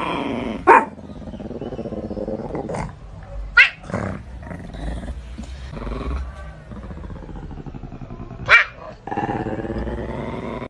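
Dog growling in long pitched stretches, broken by three short sharp sounds: about a second in, around three and a half seconds, and shortly before the end.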